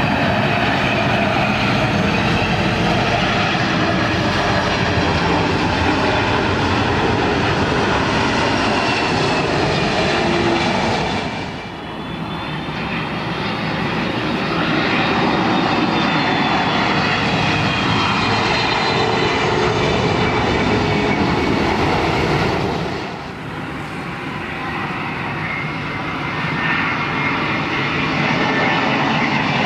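Boeing 747-400 freighter's jet engines on landing approach: a loud, steady jet roar with high whining tones that slide slowly in pitch. The level dips briefly about twelve seconds in and again about twenty-three seconds in.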